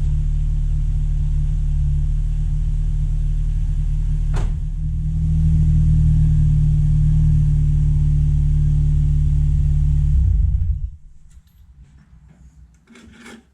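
2008 Ford Fiesta XR4's 2.0-litre four-cylinder engine idling steadily with fresh oil and power steering fluid. A sharp click about four seconds in, then the idle gets a little louder before the engine stops abruptly about eleven seconds in.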